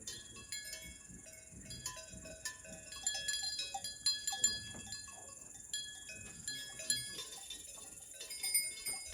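Livestock bells clinking and ringing irregularly as the animals move about, over a steady high chirring of insects.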